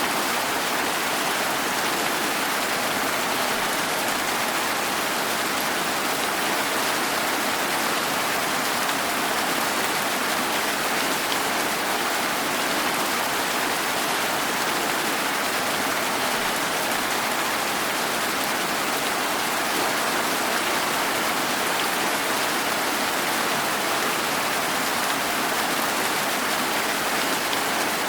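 Steady rain falling, an even hiss of many drops with no single drops or thunder standing out.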